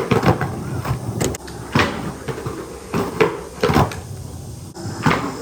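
Skateboard being ridden and knocked about on concrete: rolling noise broken by several sharp clacks of the board and trucks, the loudest about a second to four seconds in.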